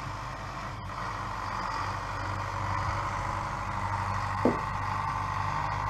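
Farm tractor engine running steadily as it drives in, slowly getting louder.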